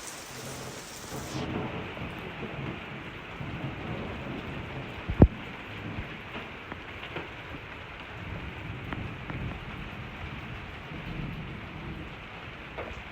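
Steady rain with low rolling thunder rumbling under it. There is a single sharp crack about five seconds in, the loudest moment, and the highest hiss drops away just over a second in.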